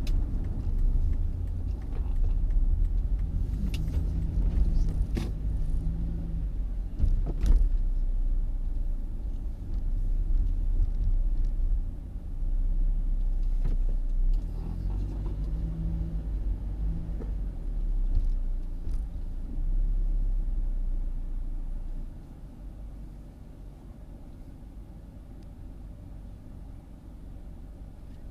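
A car driving, a steady low rumble of engine and road noise with a few light clicks and knocks. About three-quarters of the way through the rumble drops to a much quieter hum.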